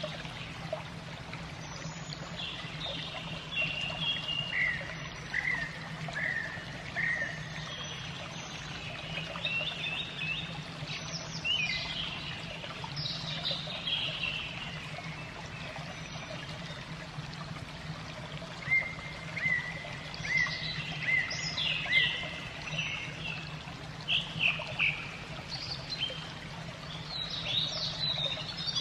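Water trickling steadily, with small birds chirping in quick runs of short high notes, busiest in the second half, over a low steady hum.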